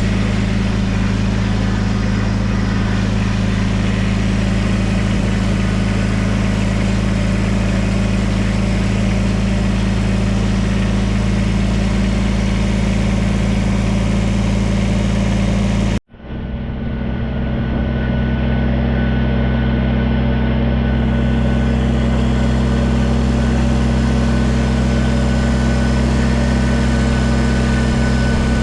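Tractor engine running steadily. The sound breaks off for an instant a little past halfway and picks up again at a slightly different pitch.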